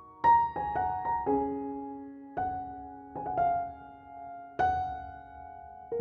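Background piano music: single notes and chords struck about once a second, each ringing and fading.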